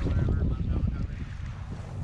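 Wind buffeting the microphone aboard a boat underway at sea, a heavy uneven low rumble.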